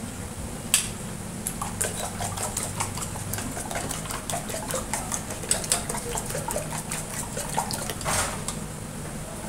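Kitchen utensils and dishes clattering: a run of light knocks and clinks, with a short rushing noise a little after eight seconds in.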